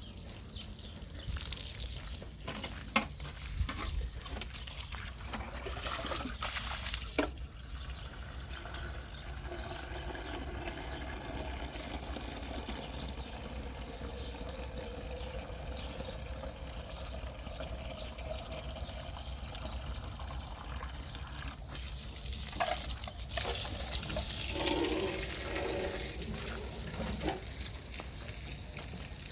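Cooking sounds: a steady hiss of water or food in the pan, with scattered sharp clinks of utensils.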